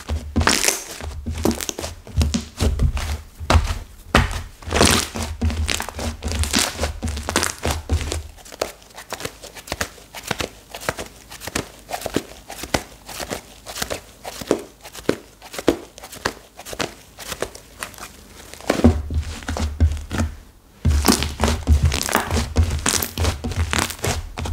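Hands squeezing, pressing and stretching stiff, hardened clay slime, giving a dense run of crackles, pops and tearing sounds. Dull thumps come in the first third and again near the end.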